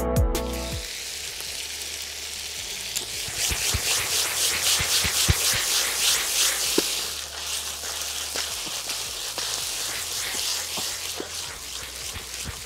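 Chicken pieces with tomato and chillies sizzling in a kadai, with occasional clicks and scrapes of a spatula turning them.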